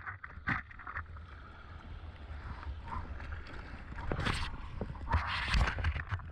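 Sea kayak on the water, heard through a mouth-held GoPro bite mount. There is a steady low rumble of wind and mount noise, with several splashes of paddle strokes and water, the loudest near the end.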